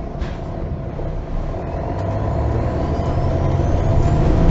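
Engine of a MAN Lion's City G articulated city bus heard from inside the passenger cabin, accelerating: the engine note steps up and grows steadily louder, with a faint whine rising in pitch over the second half.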